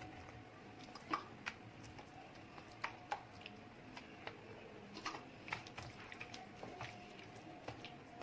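Faint scattered clicks, taps and soft squelches of chicken pieces being handled into a bowl of wet marinade, over a faint steady hum.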